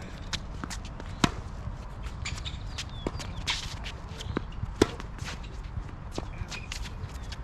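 Tennis ball struck by racquets during a rally: two sharp, loud hits about three and a half seconds apart, amid many lighter ticks and scuffs of footsteps moving on the court.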